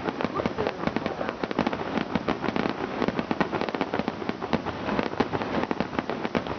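Fireworks going off in a rapid, continuous string of sharp cracks and pops, several a second.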